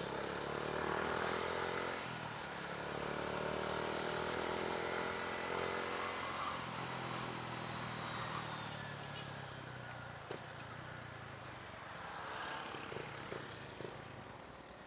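Motorcycle engine heard from the rider's helmet-mounted mic while riding, its pitch rising and falling with the throttle. It grows quieter from about ten seconds in as the bike slows.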